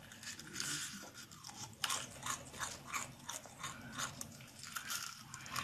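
Crunching and chewing of chafer beetles bitten off a skewer: a run of sharp, irregular crackles.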